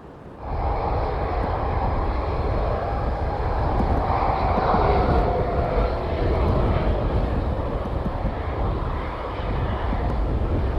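Airplane engines running loud as an aircraft passes on or near the runway, a steady low rumble with a whine that dips slightly in pitch midway. The sound starts abruptly about half a second in.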